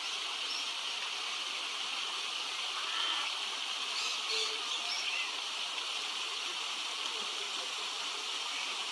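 Steady rushing of running water, like a small stream or waterfall, with a few faint, brief high chirps.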